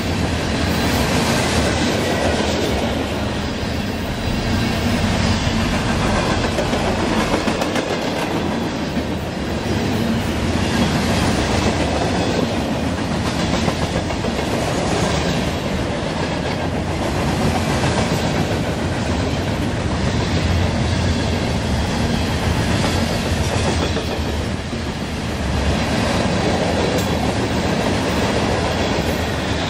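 Freight train of tank cars and covered hoppers rolling past at speed close by: a steady rumble and clatter of steel wheels on the rails that swells and fades in a regular rhythm as each car goes by.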